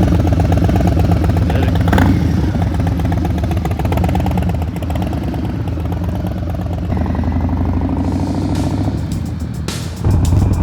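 Harley-Davidson Sportster Forty-Eight's air-cooled V-twin running through an SP Concepts Lanesplitter exhaust. It rises in pitch for a couple of seconds as it accelerates, drops back briefly, then comes back loud near the end.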